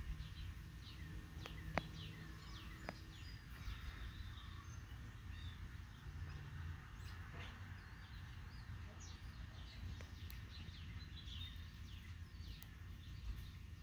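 Birds chirping: scattered short, falling chirps over a steady low outdoor rumble, with two light clicks about two and three seconds in.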